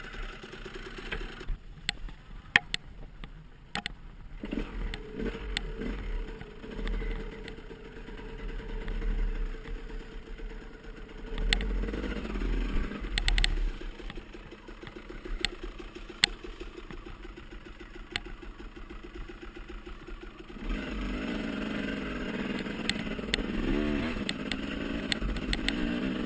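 Off-road dirt bike engines running and revving up and down, with sharp knocks here and there. The sound steps up abruptly about three quarters of the way in.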